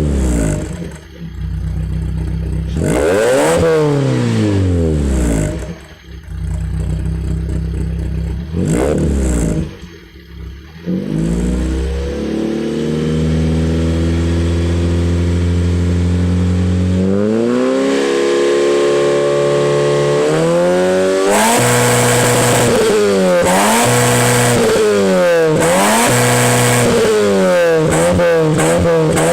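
Proton Exora CPS's 1.6-litre four-cylinder petrol engine revving through an aftermarket Jasma twin-tip exhaust. First come sharp throttle blips that fall back quickly. Then the engine is held at a steady raised speed, climbs higher, and near the end is revved up and down in quick succession about once a second.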